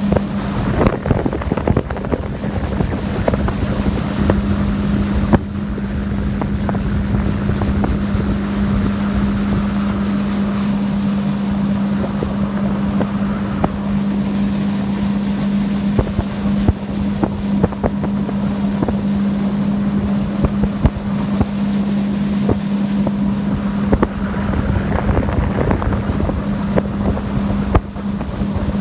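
Speedboat's Suzuki 100 hp outboard motor running at a steady speed, a constant unchanging drone, with wind on the microphone and rushing water around it.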